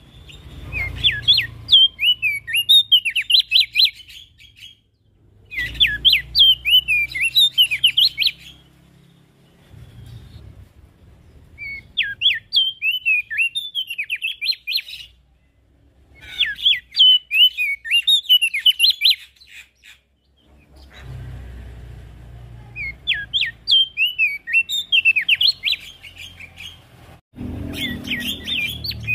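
Javan grey-throated white-eye (opior jambul) singing: phrases of rapid, high chirping notes, each about three seconds long, repeated six times with short pauses between, over a faint low rumble.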